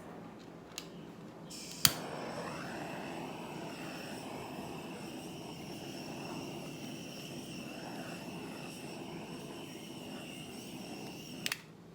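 Small handheld torch clicked alight about two seconds in, then a steady hissing flame, shut off with a couple of clicks near the end.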